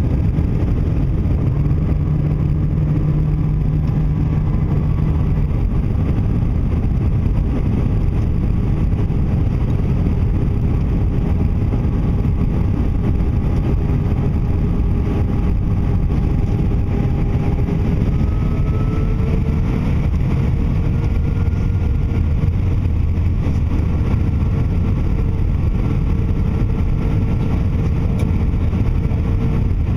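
Airbus A319 airliner cabin noise: the jet engines and rushing air make a steady, loud rumble, with thin engine tones that shift slightly higher about two-thirds of the way through.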